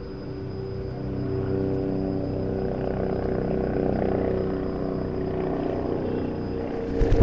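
Engine running steadily with a hum of several held tones, growing louder about a second in; a sudden loud thump near the end.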